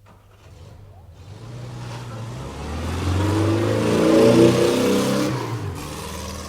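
Motor vehicle engine sound that swells to a peak about four seconds in and then fades away, like a revving pass-by.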